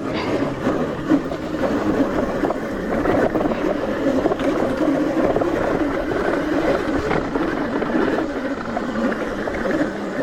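ETM RTR electric dirt bike being ridden on a dirt trail: the steady, unbroken running noise of its motor, drivetrain and tyres.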